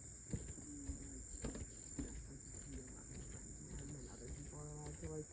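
Steady high-pitched buzz of a summer insect chorus, with a few soft knocks; a man's voice begins near the end.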